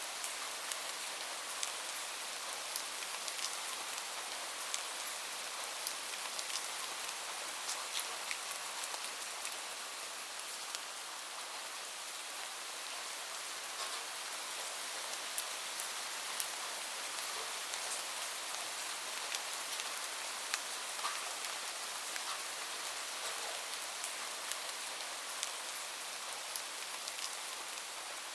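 Steady rain falling, a constant hiss with many distinct drops tapping close by.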